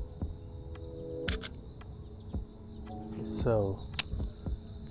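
Steady high chorus of crickets trilling, with two sharp clicks, about a second in and again about four seconds in, and a short low vocal sound just before the second click.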